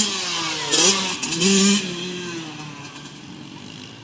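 Motocross bike engine revving hard, its pitch dipping and rising twice, then fading as the bike moves away.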